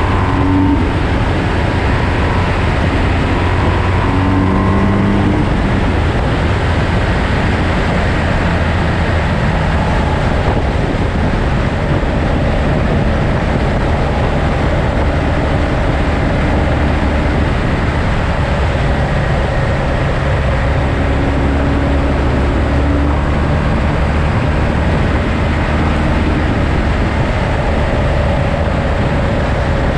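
Ducati Monster's V-twin engine running steadily while riding downhill, with its pitch shifting a little as the revs change.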